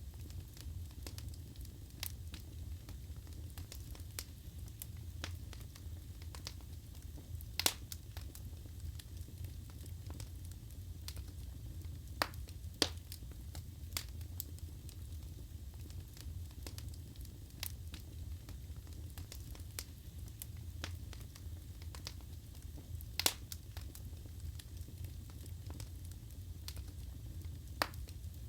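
Wood fire burning in a fireplace: a steady low rumble of the flames with scattered crackles and a few sharper pops from the logs.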